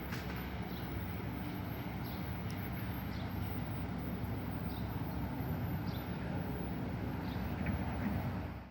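A steady low rumble, with faint short bird-like chirps scattered through. It cuts off abruptly at the end.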